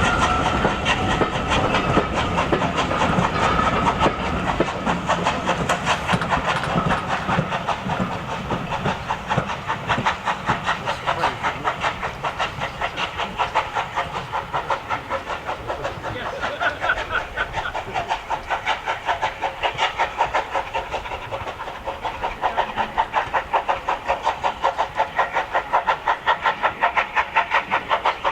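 Steam locomotive working, its exhaust beating in a steady rhythm over a hiss of steam. The beats become sharper and louder about twenty seconds in.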